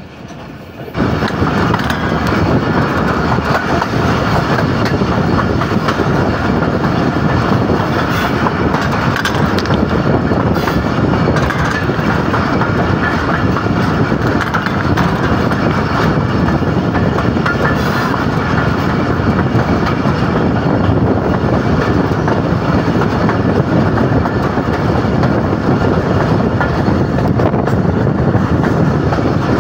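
Diesel-hauled passenger train running at speed, heard from an open carriage doorway: a steady, loud rumble and rush of the carriages' wheels on the rails. It gets suddenly louder about a second in.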